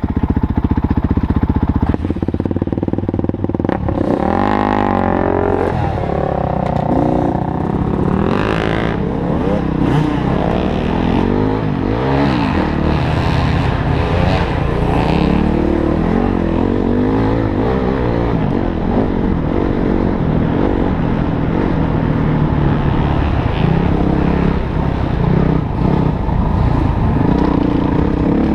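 Motorcycle engine running and being revved, its pitch rising and falling; the clearest climbs in revs come about four and eight seconds in.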